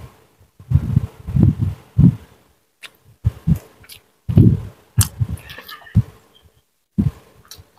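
Close-miked eating sounds of a person chewing fried duck and rice eaten by hand: repeated low, wet munches in short runs with brief pauses between, and a few sharp smacks or crisp clicks.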